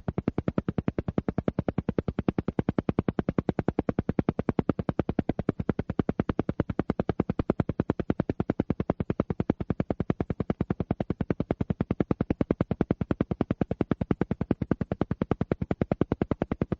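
Alpha-wave isochronic pulse track: a low tone switched on and off in rapid, even pulses, about ten a second, with a steady rate and level.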